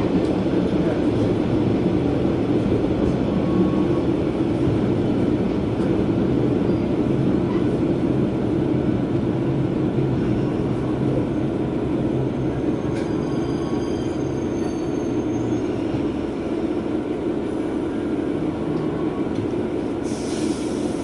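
Cabin sound of a single-car diesel railcar running along the line: a steady engine drone with wheel and rail noise. A faint high squeal comes for a couple of seconds midway, and a brief hiss near the end.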